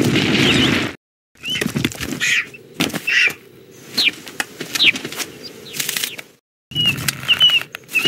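Animated-film bird creature sound effects: a string of short chirps and squawks that slide in pitch, mixed with flapping and sharp clicks. They come in separate clips, with two short silences, about one second in and again near the end.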